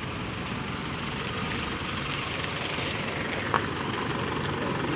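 A vehicle engine idling steadily, with a single short click about three and a half seconds in.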